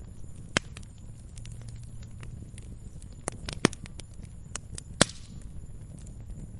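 Wood fire crackling in a fireplace: a steady low rumble of flames with scattered sharp pops, the loudest about half a second in, about three and a half seconds in, and about five seconds in.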